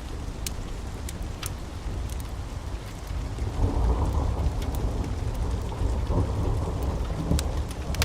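Steady rain with a low rolling thunder rumble that swells about three and a half seconds in, and scattered sharp pops of a crackling wood fire.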